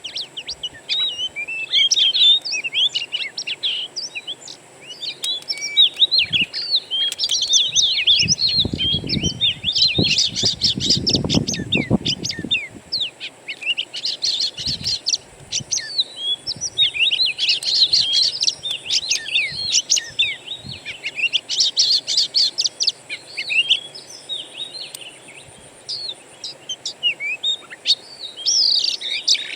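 Wild songbirds singing continuously, a dense run of quick varied chirps, trills and whistles. A low rumble sits under the song for a few seconds around the tenth second.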